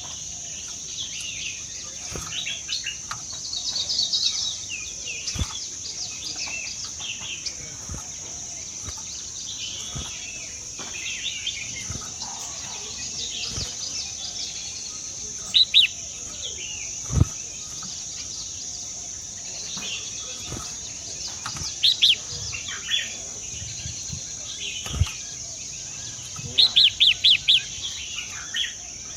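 Birds chirping in short scattered calls, with a quick run of about seven sharp chirps near the end, over a steady high-pitched background hum. A few sharp knocks in between.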